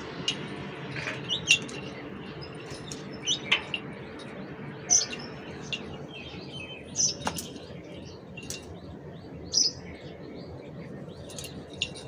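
Small birds chirping: short, high, sharp chirps about once a second, over a steady low background hum.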